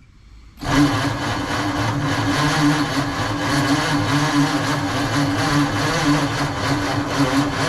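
Starter cranking the 1948 Ford F5 truck's engine, which turns over with a fast, even chug from about half a second in. The manual choke is partly closed for a start attempt after the engine has sat for nearly 30 years.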